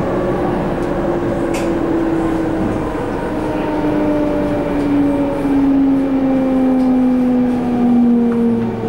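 MTR Ma On Shan line C-Train heard from on board: the traction motors' whine falls steadily in pitch as the train slows, over the constant rumble of the wheels on the track.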